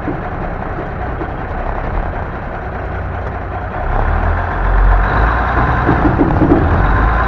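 M923A1 5-ton 6x6 military truck's Cummins diesel engine running while the truck drives, growing louder with a deeper rumble about four seconds in as it pulls harder.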